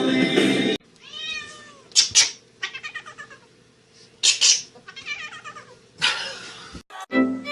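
A domestic cat meowing several times, drawn-out meows that rise and fall in pitch, with short sharp noisy bursts between them.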